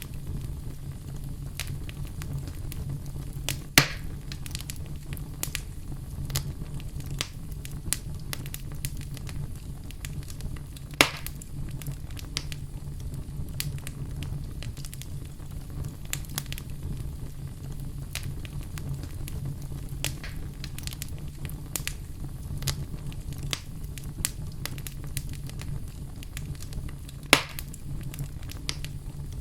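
Wood fire burning in a fireplace: a steady low rumble of flames with constant small crackles, and three loud sharp pops about 4, 11 and 27 seconds in.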